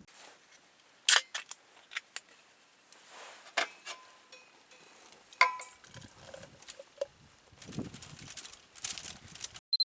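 Scattered small knocks and clinks of camp gear being handled, a couple of them with a short metallic ring.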